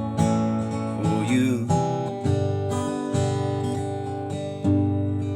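Acoustic guitar strumming chords, with a fresh strum about every second or so.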